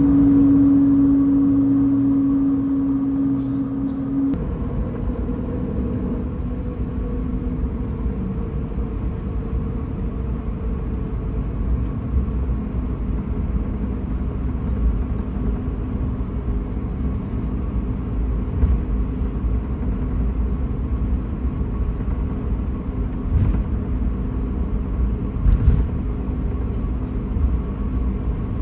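Steady rumble inside the cabin of an Airbus A220-300 airliner, heard from a front window seat. A steady hum sits on top of the rumble for the first few seconds and then fades out. A few faint knocks come in the second half.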